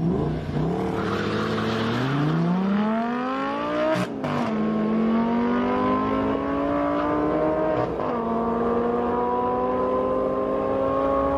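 Drag-racing cars, an Audi R8 V10 Spider and a Shelby Cobra, accelerating hard down the strip at full throttle. The engine pitch climbs steadily and drops sharply at gear changes about 4 and 8 seconds in.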